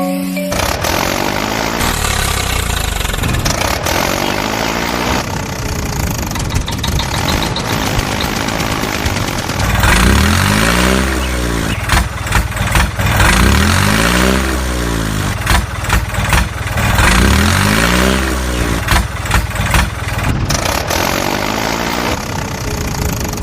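Tractor engine running, then from about ten seconds in revving up and dropping back again and again, roughly every two seconds.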